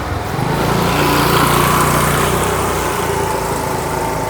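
An engine running with a steady low hum and a noisy rush that swells between about one and two seconds in, then eases a little.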